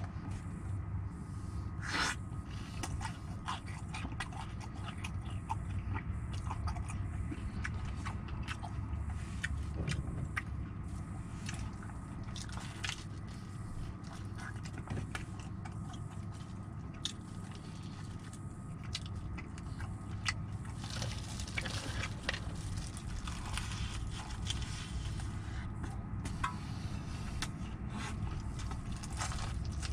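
Close-up chewing and biting of crispy fried chicken, with many small crunches and clicks, over a steady low rumble.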